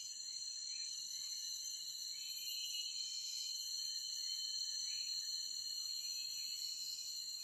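Forest insects calling in a steady, high-pitched chorus of several held tones, with short chirps now and then.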